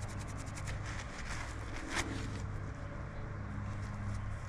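Brisk hand rubbing of a metal part with a cloth and Brasso polish, a fast run of short scratchy strokes with a sharper click about two seconds in; the rubbing stops about two and a half seconds in, leaving a low steady hum.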